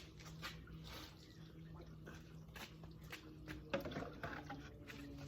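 Faint wet squishing and dripping of a soapy sponge and water on a car body during hand washing, in scattered short sounds, a little louder about four seconds in.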